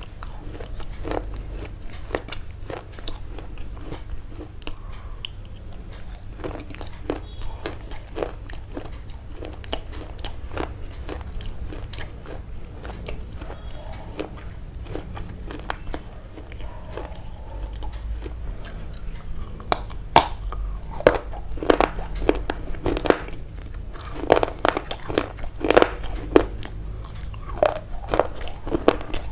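Close-up crunchy chewing: a steady stream of small bites and crunches that grow louder and sharper about two-thirds of the way through.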